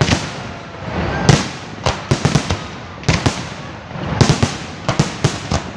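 Large professional fireworks display: aerial shells bursting in loud sharp bangs at irregular intervals, several in quick clusters, over a continuous rumble and crackle of further bursts.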